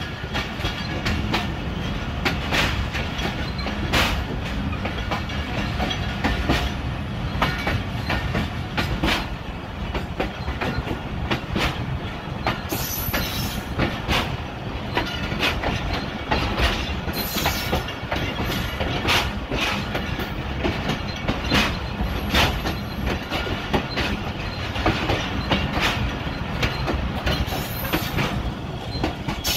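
Passenger train running, heard from a carriage doorway: wheels knocking over rail joints in a steady stream of clacks over a continuous rumble, with brief high-pitched wheel squeals now and then.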